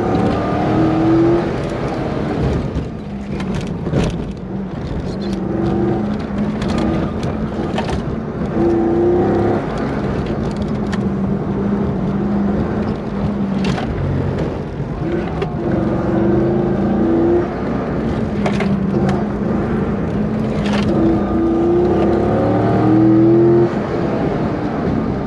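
C5 Corvette's V8 engine heard from inside the cabin, revving up and dropping off again and again as the car is driven hard through an autocross course.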